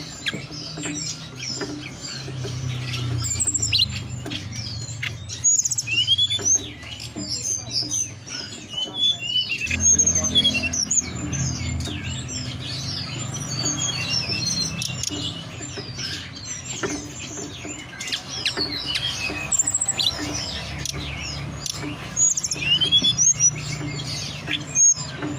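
Tledekan gunung song played as a lure call: a dense, continuous chatter of high chirps and short upward-curving whistled notes, over a low steady hum.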